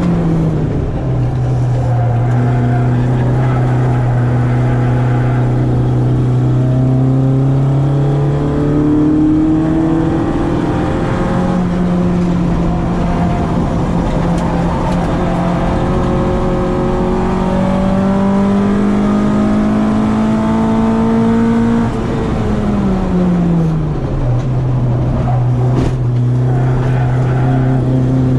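Citroen AX 8-valve engine breathing through twin Weber 40 carburettors, driven hard on track. The revs drop just after the start, climb slowly and steadily through the middle as the car pulls, then fall sharply about three-quarters of the way through before holding again.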